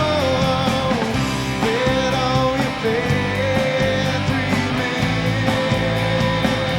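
Rock band playing: electric guitars, bass and drums, with a long held melody note over the band from about a second and a half in.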